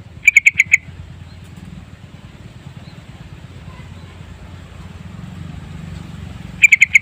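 Yellow-vented bulbul calling: two loud quick phrases of about five chirping notes each, one about half a second in and one near the end, over a steady low rumble.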